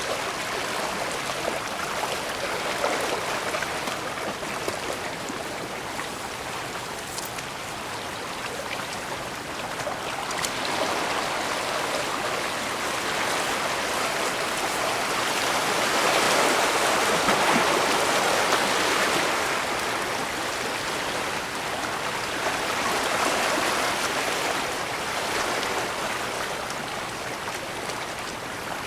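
Water of a bay washing against the shore: a steady rush that slowly swells and ebbs, loudest a little past the middle.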